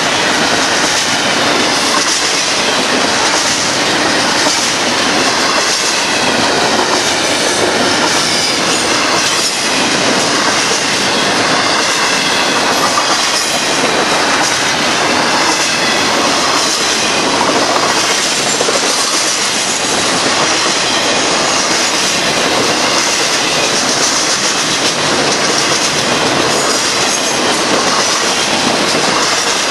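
Union Pacific intermodal container train's cars rolling past at speed: a steady loud rush of wheels on rail with faint regular clicks over rail joints and thin, wavering high wheel-squeal tones.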